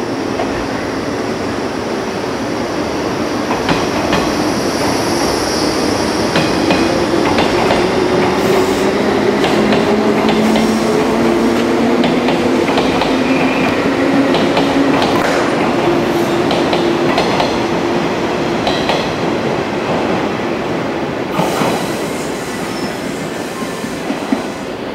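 A JNR-type limited express electric train pulls out of the station: its motor hum climbs in pitch as it gathers speed, and the wheels clack and knock over rail joints and points. Near the end the train sound changes abruptly to a quieter train running.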